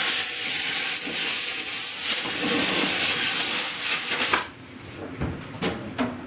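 Compressed air blowing dust out of wooden toolbox parts: a loud, steady hiss that cuts off suddenly about four seconds in.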